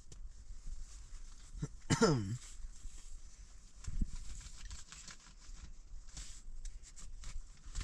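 A single short animal call that falls in pitch, about two seconds in, over a steady low rumble, with a soft knock a couple of seconds later.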